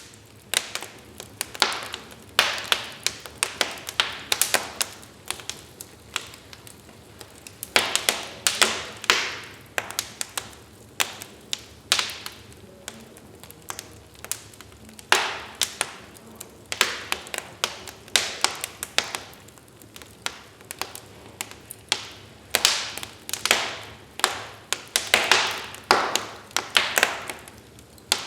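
Wood fire crackling: irregular sharp pops and snaps, often in quick clusters, over a faint low hiss of the burning logs.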